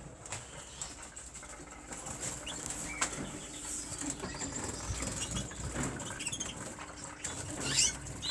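Caged canaries fluttering and flapping their wings, with a few short chirps; the loudest is a quick rising chirp near the end.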